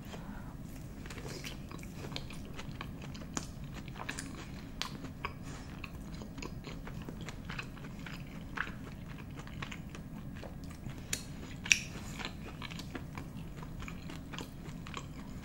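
Close-miked chewing of a mouthful of smoked sausage with cheese sauce: irregular wet mouth clicks and smacks, with one sharper click about three-quarters of the way through.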